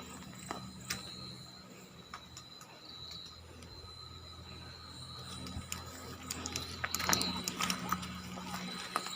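Crickets trilling steadily, with scattered clicks and crunches that grow louder and thicker about seven seconds in.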